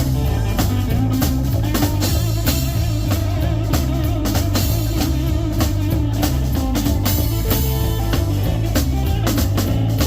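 Live band playing an instrumental boogie-blues passage: a drum kit keeps a steady beat over a stepping bass line, with electric guitar.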